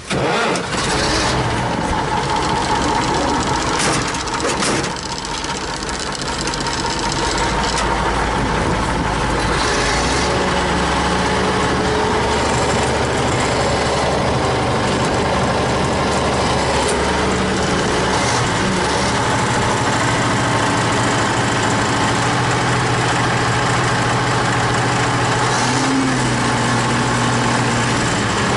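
Kharkiv T-150K tractor's diesel engine running loudly and steadily, its pitch shifting a couple of times.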